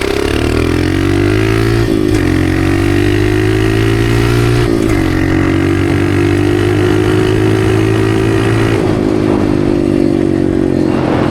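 Dirt bike engine running under way through its exhaust. Its pitch rises in the first second and then holds steady, with brief breaks in the note about two, five and nine seconds in.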